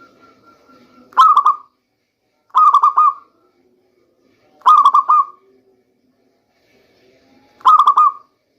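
Local zebra dove (perkutut) cooing: four short phrases of quick stuttering coo notes, spaced a couple of seconds apart.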